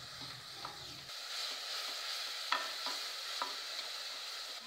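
Spice masala sizzling as it fries in oil in a steel pot, stirred with a wooden spatula, with a few sharp clicks as the spatula strikes the pot. The fennel, poppy seed and red chilli powders have just gone in and are being fried.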